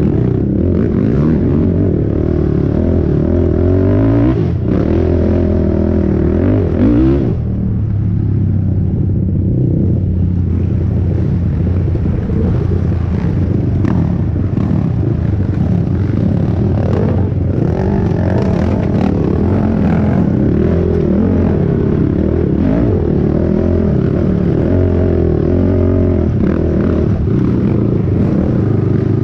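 Honda TRX450R racing quad's single-cylinder four-stroke engine running hard under race throttle, revs rising and falling, easing off briefly about seven seconds in.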